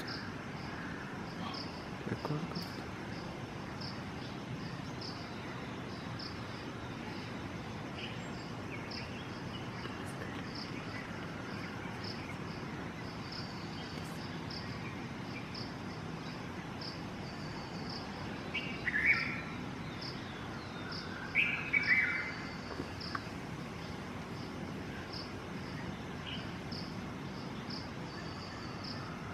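Crickets chirping steadily in a regular pulse, about two chirps a second. About two-thirds of the way through, two short bird calls stand out, a few seconds apart.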